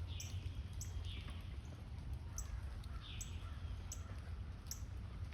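Wild birds calling: short high chirps repeating about once a second, with a few falling notes in the first few seconds, over a steady low rumble.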